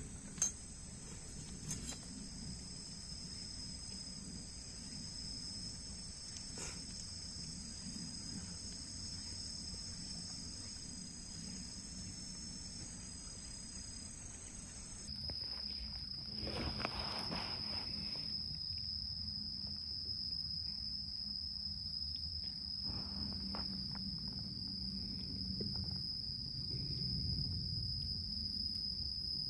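Insects chirring in a steady, high-pitched drone, with a couple of small clicks near the start and a brief rustle a little past halfway.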